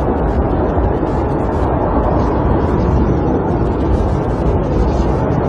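Snowstorm wind blowing steadily against a camper, a dense low rushing noise with faint scattered ticks on top.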